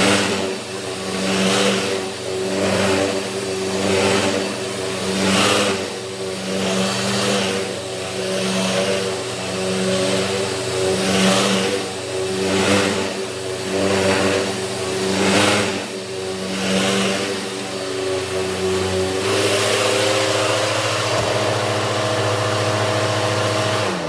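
Dirt Devil vacuum cleaner running, its airflow hiss swelling and easing about every second and a half as it is pushed back and forth over the bed. Near the end it runs steadily, then it is switched off and the motor winds down.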